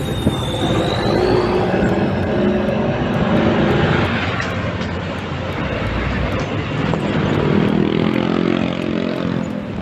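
Steady engine rumble of motor traffic on a city street.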